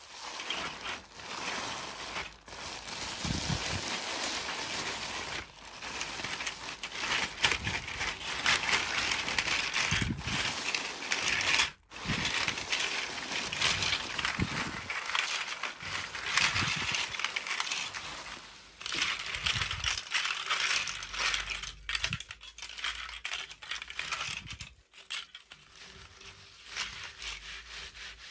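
Toy packaging crinkling and rustling as it is unwrapped by hand, with many small clicks and taps, stopping briefly about halfway through.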